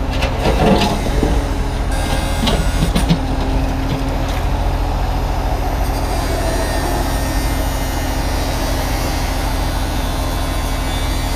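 Kubota U35-3 mini excavator's diesel engine running steadily under work, with a few knocks and clanks in the first few seconds as the machine moves onto large pieces of broken concrete.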